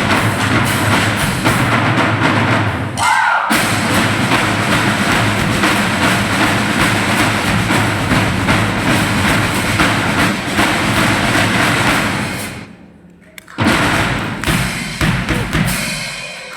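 Drum ensemble playing a fast, dense rhythm, breaking off briefly about three seconds in. Near the end it stops for about a second, then a final loud stroke rings out and fades.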